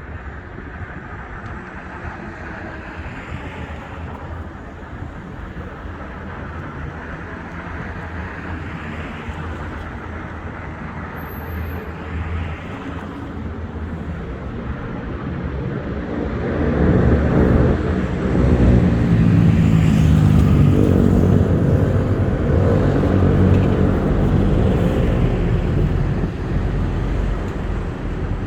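Steady road traffic noise. About halfway through a louder engine passes close by, swelling for several seconds and then fading slightly.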